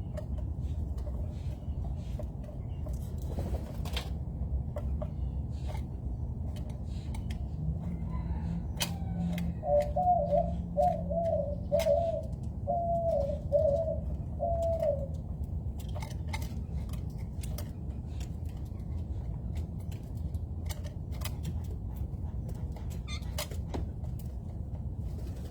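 A dove cooing: a run of short, low, hooting notes about ten seconds in, over a steady low rumble with scattered small clicks.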